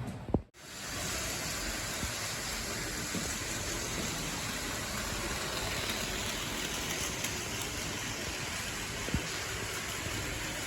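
Steady, even hiss of background noise, broken about half a second in by a sharp click and a brief cut-out.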